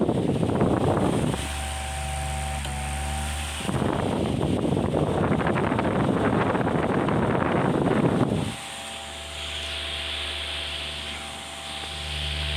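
Mondial Super Turbo VTX electric fan running: a steady motor hum with several held tones, broken twice by long stretches of loud rushing air, the first ending about a second and a half in, the second lasting from about four to eight and a half seconds in.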